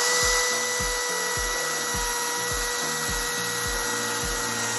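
Ego battery-powered electric chainsaw running at full speed through a 2x8 board, a steady high whine that winds down right at the end.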